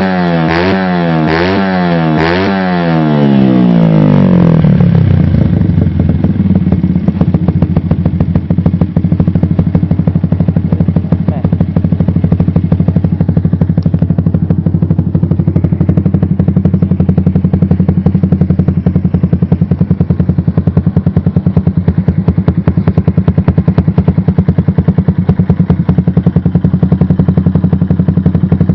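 Yamaha Jupiter MX 5-speed's single-cylinder four-stroke engine through a CLD Racing C3 aftermarket racing exhaust. The throttle is blipped, revving it up and down about four times in quick succession, and over the first few seconds it settles to a loud, steady idle with an even pulsing beat.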